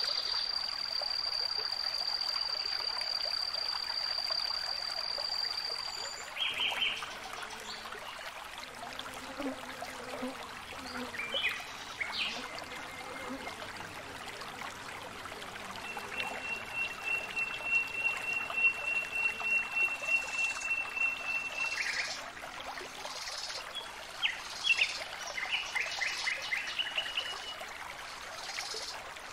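Water trickling steadily, like a small stream, with birds calling over it: a long high whistled note for the first several seconds, scattered short chirps, and another long, slightly pulsing note past the middle.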